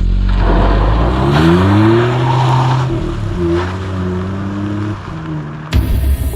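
Car engine revving, its pitch climbing and falling back a couple of times. About 5.7 s in it cuts off at a sharp hit and electronic music begins.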